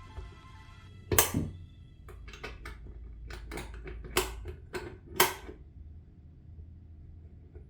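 Hard small parts clicking and knocking while a swivel faucet adapter is handled and fitted at a bathroom faucet. The sharpest knock comes about a second in, followed by a quicker run of clicks over the next few seconds.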